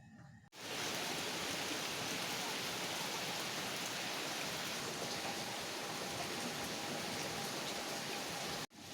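Heavy rain falling, a steady, even hiss. It comes in abruptly about half a second in and cuts off sharply near the end.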